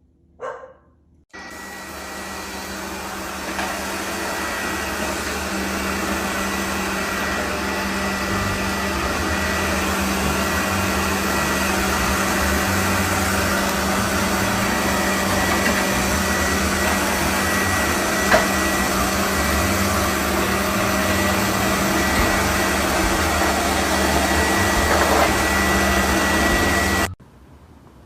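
Steady whirring of an electric motor and fan with a thin high whine. It starts abruptly about a second in, grows slowly louder, and cuts off abruptly shortly before the end.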